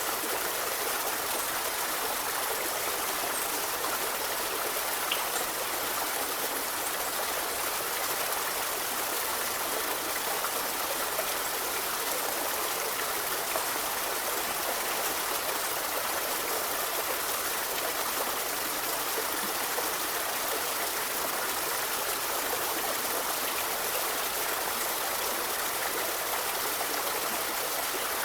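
A forest river flowing steadily, its water rushing and babbling as an even, unbroken hiss with little low rumble.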